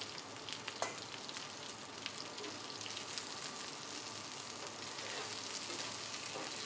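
Chicken wings sizzling and crackling on a hot flat-top griddle, a steady hiss with many small pops. Metal spatulas scrape and click against the griddle surface as the wings are pushed and turned.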